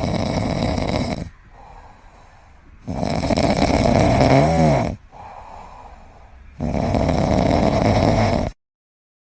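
Loud snoring in three long, rasping breaths about every three and a half seconds, with quieter breaths between them. The middle snore carries a wavering pitched whistle. It cuts off suddenly near the end.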